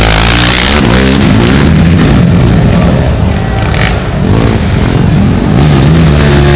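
Racing ATV engines revving up and down as quads pass, loud throughout, easing briefly a little past the middle before picking up again.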